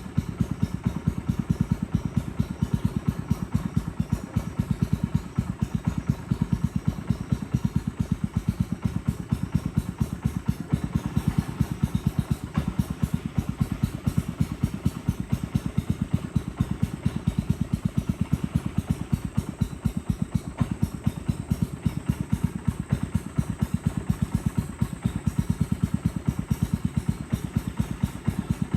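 A small boat's engine running steadily, with a fast, even pulse.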